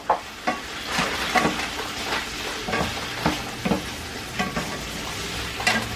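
Chicken chunks sizzling as they fry in oil and butter in a pan. A utensil stirring them makes irregular clicks and scrapes against the pan.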